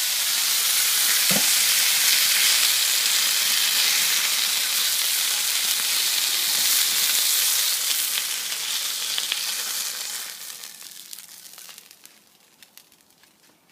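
Food deep-frying in hot oil in a wok, a loud, steady sizzle that dies away from about ten seconds in, with a short knock about one and a half seconds in.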